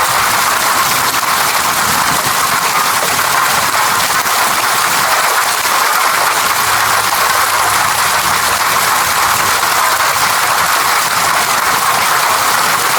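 Steady rain: an even, unbroken hiss of falling water with no separate drops or thunder standing out.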